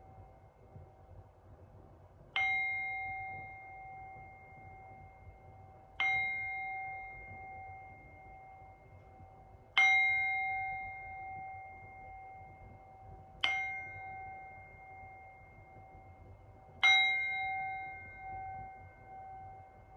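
A meditation bell struck five times, about every three and a half seconds. Each strike rings with a clear tone and higher overtones and fades out slowly.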